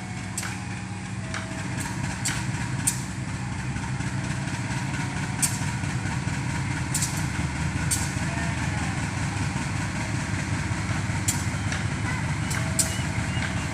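Diesel locomotive engine idling with a steady low drone, growing slightly louder, with scattered sharp clicks.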